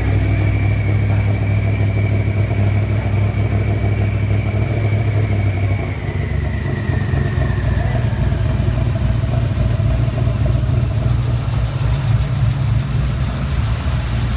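Twin-turbocharged BMW E34 540i V8 engine running on its first test start. It holds slightly raised revs, then drops to an uneven idle about six seconds in. A thin high whine slowly falls in pitch and fades away over the first several seconds.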